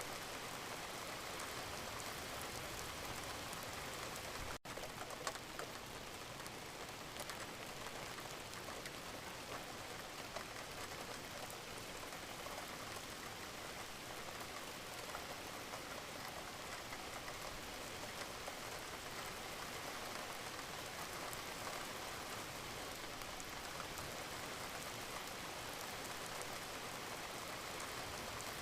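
Wood fire burning in a fireplace: steady hiss with many small, sharp crackles and pops. There is a momentary cut in the sound about four and a half seconds in.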